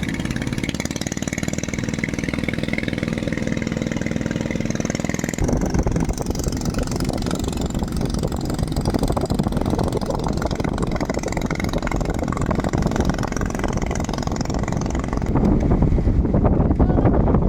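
Longtail boat engine running. About five seconds in its sound turns rougher and heavier, and it grows louder near the end.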